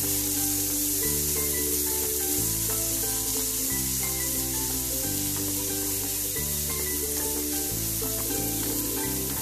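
Chopped onion and capsicum sizzling in butter in a frying pan, stirred and scraped continuously with a wooden spatula. Soft background music with chords changing about once a second plays underneath.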